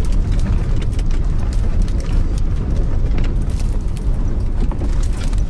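Gale-force wind, around force 8, buffeting a small camper van and the microphone: a loud, steady low rumble with scattered knocks.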